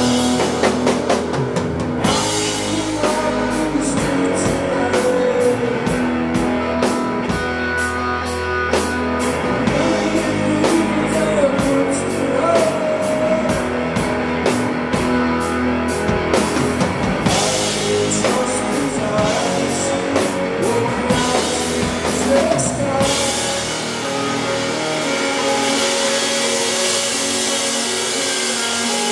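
Live rock band playing a passage without sung words: drum kit with regular cymbal strokes over sustained guitar and bass. The cymbals wash louder in the last few seconds.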